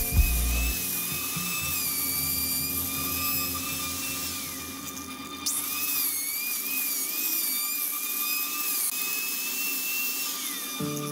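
Handheld angle grinder with a sanding disc whining at high speed against turned wood, its pitch wavering with the pressure. The whine falls away about four and a half seconds in, starts up again a second later, and falls away once more near the end.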